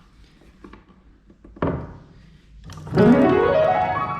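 Piano: a single chord struck, then a quick upward glissando whose top notes ring on.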